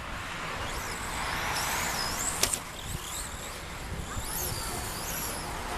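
Electric radio-controlled 2WD stadium trucks racing on a dirt track: high motor whines rising and falling as they speed up and slow down, over a steady hiss of tyres and track noise. A single sharp knock comes about two and a half seconds in.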